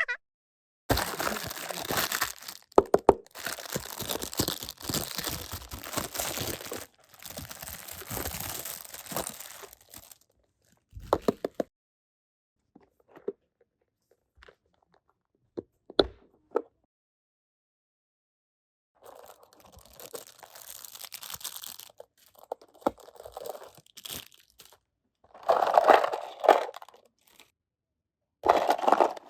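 Plastic toy packaging being torn open and crinkled, with scattered light clicks of small plastic pieces and short silent pauses between bouts of rustling.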